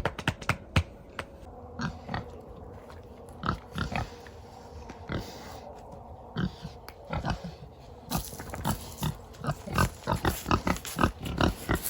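Pigs snorting as they feed: many short, irregular snorts, sparse at first and coming thick and fast over the last four seconds.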